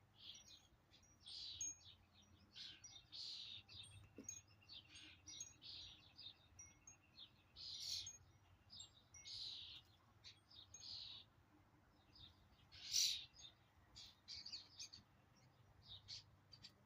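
Small wild birds chirping and squabbling, with many short, sharp calls in quick, overlapping succession and one louder call about 13 seconds in.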